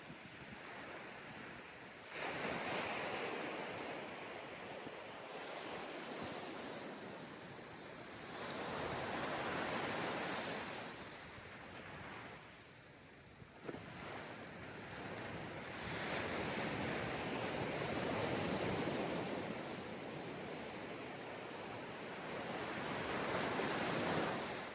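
Ocean waves breaking and washing up a sandy beach, the surf swelling and ebbing in several long surges, with a short sharp knock about halfway through.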